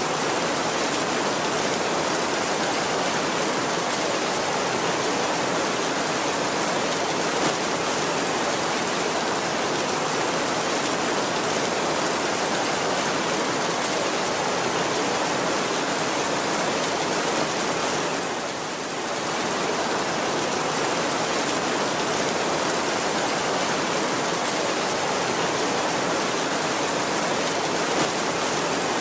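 Heavy rain falling steadily on a tin roof, an even, dense hiss that dips briefly about two-thirds of the way through.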